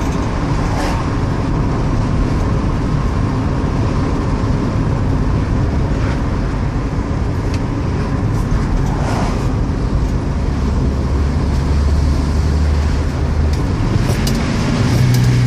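1967 AMC Rebel being driven: steady engine and road rumble, with a low engine hum that holds steady about ten seconds in and shifts higher near the end.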